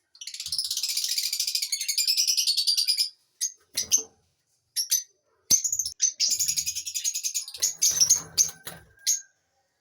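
Lovebirds chattering: rapid, high-pitched twittering in two runs of about three seconds each, with a few short chirps between.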